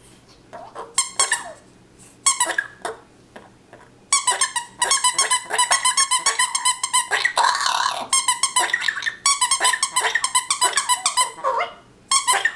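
A parrot and a dog's squeak toy squeaking back and forth: a few scattered squeaks, then from about four seconds in a fast run of high, short squeaks, several a second, with one harsher, noisier burst midway.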